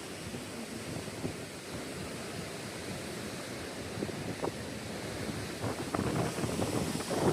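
Steady roar of the rushing Tuolumne River, with wind buffeting the microphone, gusting stronger over the last couple of seconds.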